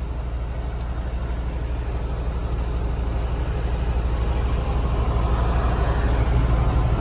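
2015 Peterbilt 579 semi tractor's diesel engine idling steadily, warmed up to operating temperature, growing gradually louder.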